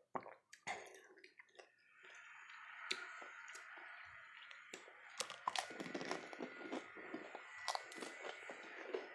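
Close-miked chewing of dahi golgappe: crisp puri shells crunching and crackling in sharp clicks over wet chewing of the yogurt filling, which gets denser and louder about two seconds in.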